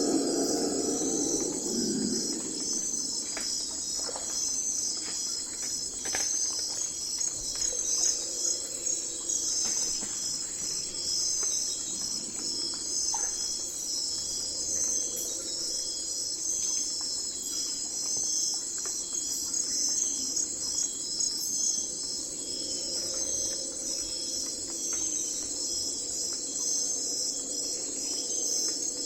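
A chorus of crickets chirping steadily in a night forest, a dense high-pitched trilling. A lower sound fades out within the first couple of seconds.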